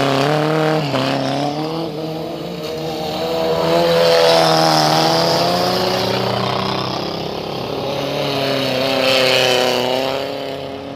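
Race cars of the 1200–1800 cc class passing one after another, their engine notes rising and falling as each goes by. The loudest passes come about a second in, around the middle, and again near the end.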